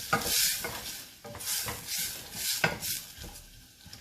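Chopped onions sizzling in butter and oil in a saucepan on medium-high heat while being stirred, giving a steady hiss with rhythmic swishing strokes about twice a second that ease off near the end.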